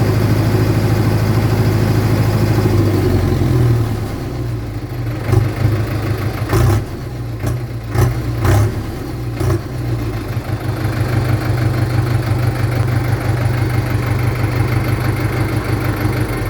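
HMT 6522 DI tractor's diesel engine running steadily; a few seconds in its note drops and gets quieter, and a handful of sharp knocks sound in the middle before it settles back to a steady run.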